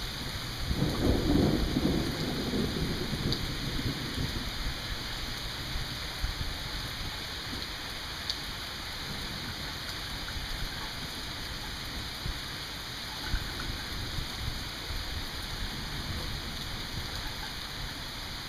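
Steady rain falling, with a low rumble of thunder starting about a second in and fading away over the next few seconds.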